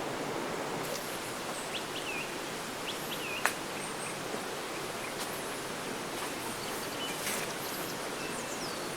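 Steady noise of running water, with a few short, downward-sliding bird chirps scattered through it and one falling whistle near the end. A single sharp click about three and a half seconds in.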